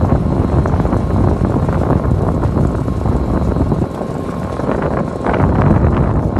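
KOM 1000+60 silage round baler running: loud, steady machinery noise with a faint steady whine. The level dips briefly about four seconds in and then picks up again.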